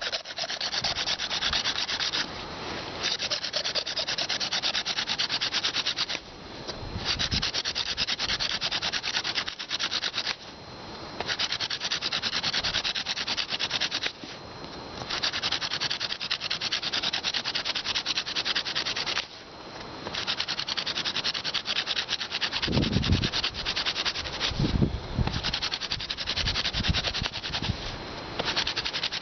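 Hand-drill friction fire: a wooden spindle twirled fast between the palms grinds into a fireboard notch with a dry, rapid rubbing, working up heat to form an ember. The drilling comes in long runs with several brief pauses, and there are two low thuds about two-thirds of the way through.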